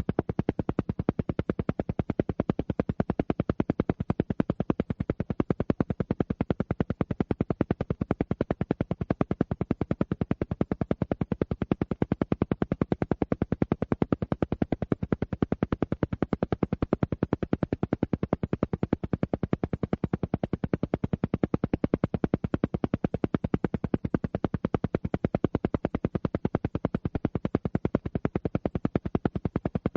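Isochronic alpha-wave tone: a rapid, steady train of evenly spaced electronic pulses, a rhythmic beat used for brainwave entrainment toward a relaxed alpha state.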